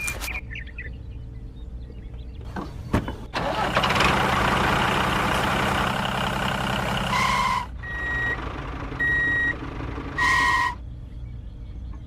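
A vehicle's engine runs steadily under a loud rushing noise from about three seconds in to nearly eight. A reversing alarm then beeps about once a second, four times.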